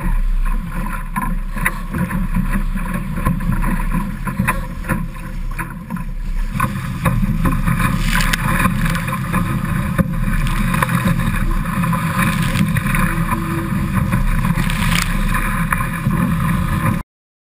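Wind rumbling on the camera microphone and water rushing and splashing along the hull of a Laser sailing dinghy under way. The sound cuts off abruptly near the end.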